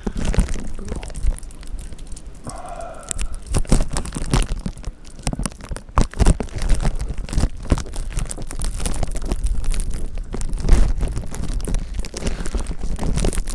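A lunch bag wrapped around the camera crinkling and rustling against the microphone in a dense run of crackles, over a low rumble of wind buffeting the microphone.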